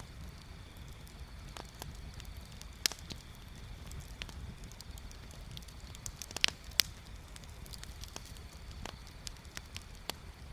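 Wood bonfire crackling, with scattered sharp pops; a loud one comes about three seconds in and a quick cluster of two or three near the middle.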